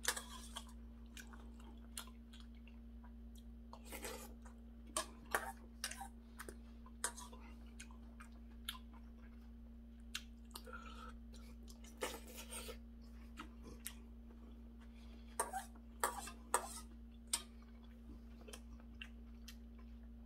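Close-up eating sounds of seonji gukbap, ox-blood curd soup with rice, taken from a spoon: scattered wet chewing and mouth noises in short bursts, over a faint steady electrical hum.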